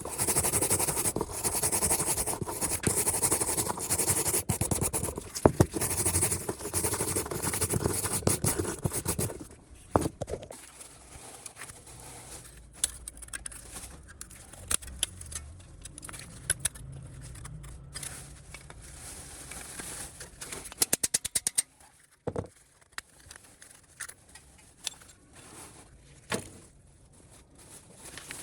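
Rapid, continuous scraping on rusty metal parts for the first nine seconds or so. Then it stops, leaving scattered small clicks and taps, with a quick run of clicks about two-thirds of the way in.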